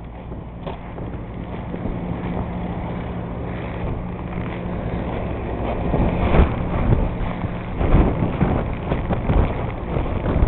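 Storm wind blowing hard across the microphone, buffeting in irregular heavy gusts that grow stronger about halfway through. A steady low hum sits underneath in the first few seconds.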